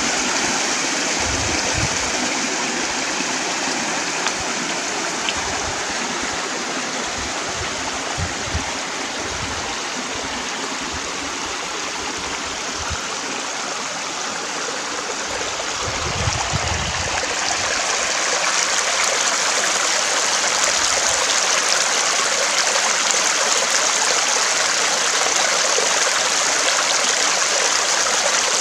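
Stream water running and gurgling in a steady rush. About two-thirds of the way through it turns brighter and a little louder.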